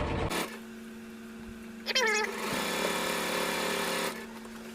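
Domestic sewing machine stitching, stopping just after the start; about two seconds in, one short high call that dips and rises in pitch, followed by about two seconds of soft hissing noise, over a faint steady hum.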